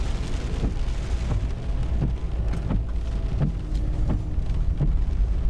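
Rain on a pickup truck heard from inside the cab, over a steady low rumble, with a soft regular sweep about every two-thirds of a second.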